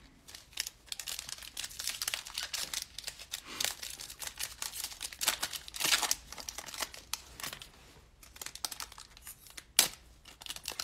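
Foil wrapper of a trading-card pack crinkling as it is handled and torn open, in irregular crackles, with one sharp snap near the end.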